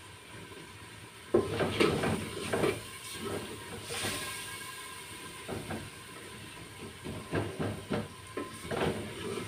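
Onion and spice masala sizzling in a large aluminium pot over a high flame, stirred with a wooden spoon. The stirring starts about a second in, with scrapes and knocks of the spoon against the pot, and comes again in shorter strokes later on.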